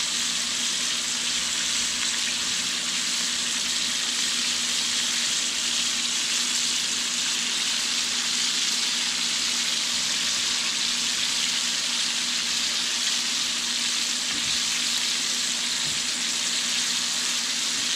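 Flour-breaded burbot chunks deep-frying in hot oil in a cast-iron skillet: a steady, busy sizzle of bubbling oil. The fish is still cooking, not quite done and crisping up.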